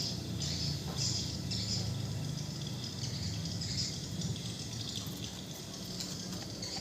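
Outdoor chirping: high-pitched calls in irregular bursts from small birds or insects, over a low steady hum that fades near the end.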